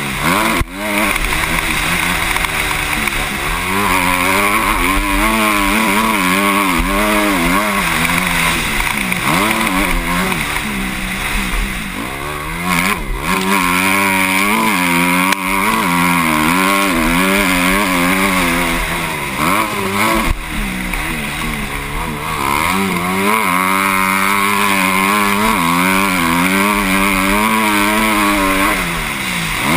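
Motocross motorcycle engine heard from a helmet-mounted camera, its pitch rising and falling over and over as the throttle is opened and closed through the track. There are brief drops in the sound near the start, about 13 seconds in and about 20 seconds in.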